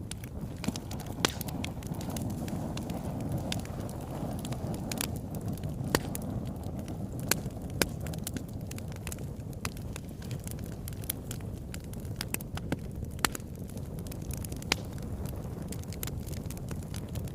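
Wood fire burning in a fireplace: a steady low rush of flames with frequent irregular crackles and sharp pops, a few of them loud.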